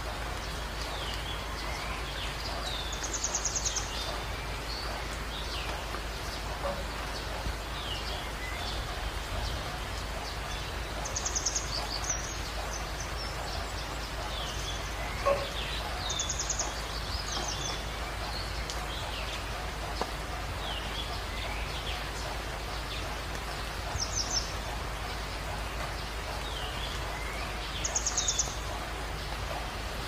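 Several birds calling: short downward-sliding chirps repeated every second or two, and about five brief, high, rapid trills spaced several seconds apart, over a steady background hiss.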